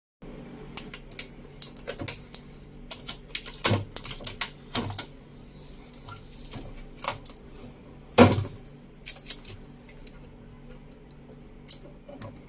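Irregular sharp clicks and light knocks of hands working at the packing tape and plastic fittings inside a new fridge, two louder knocks among them, over a faint steady hum.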